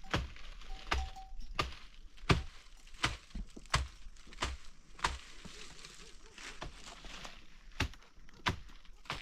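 Repeated sharp chopping strikes, about one every two-thirds of a second, pausing for a few seconds after about five seconds before starting again.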